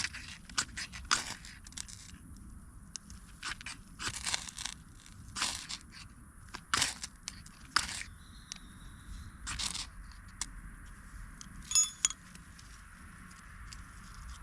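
Irregular dry crunching and rustling of straw or dry plant litter being handled or stepped on, about a dozen separate crunches.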